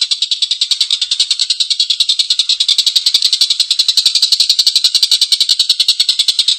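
Tengkek buto kingfisher giving a long, harsh chattering call: a rapid unbroken run of short rasping notes, about ten a second.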